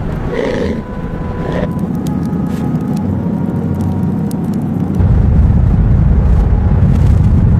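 Strong storm wind blowing, a deep steady rumble that gets louder about five seconds in.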